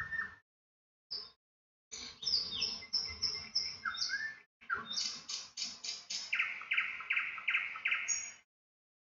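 Birds chirping and calling: short high whistled notes and quick pitch glides, then a run of about five repeated notes near the end.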